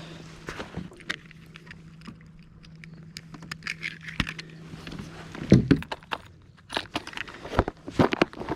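Clicks, knocks and rattles of fishing gear being handled aboard a kayak, growing louder and busier about halfway through. A steady low hum runs underneath and stops about five and a half seconds in.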